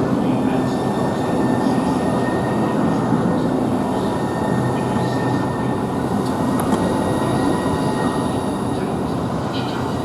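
A train running at a station platform: a steady low noise with a high steady whine over it, unchanging throughout.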